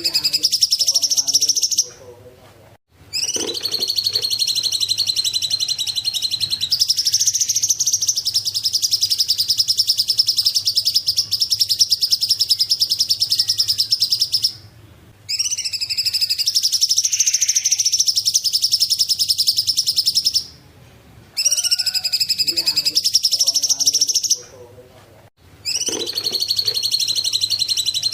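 Cungkok songbird singing a fast, high-pitched trilling chatter in long unbroken bouts, with five bouts split by short pauses of about a second.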